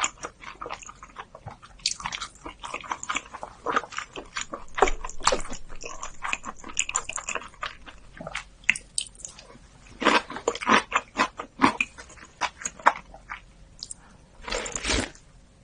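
Close-miked mouth sounds of a person biting and chewing food, a stream of irregular short clicks with denser clusters about ten seconds in and near the end.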